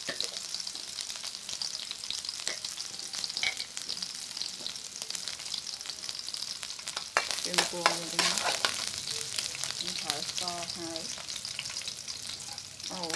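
Chopped aromatics frying in oil in a metal wok, a steady high sizzle. About halfway through it grows louder for a few seconds, with clicks and a voice briefly in the background.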